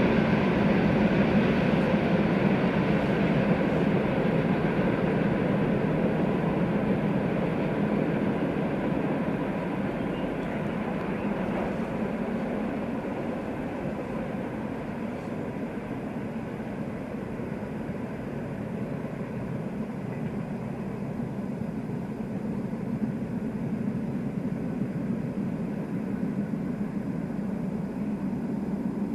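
Freight train behind a VL11.8 electric locomotive rolling past on the rails, a steady rumble of wagons that slowly fades as the train moves away.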